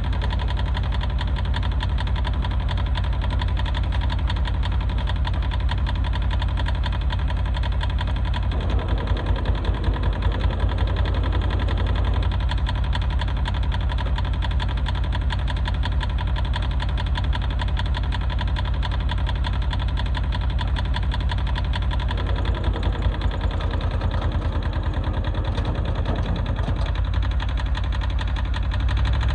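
Yanmar YM146 compact tractor's diesel engine running steadily. Its note changes about a third of the way in and again near the end as the tractor is put under load through its power-shift transmission, which is being tested for burned clutches.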